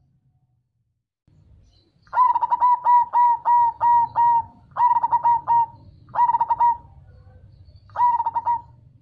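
Zebra dove (perkutut) cooing: a rapid string of repeated ringing notes, then three shorter phrases of the same notes, after a short quiet start.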